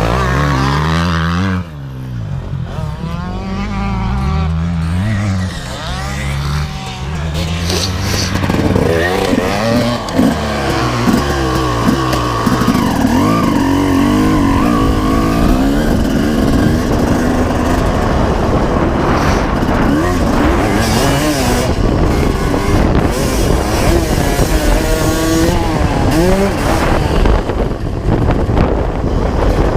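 1995 Honda CR250R's two-stroke single-cylinder engine being ridden hard: the pitch climbs and falls again and again as the rider works the throttle and gears, with the throttle chopped sharply about a second and a half in.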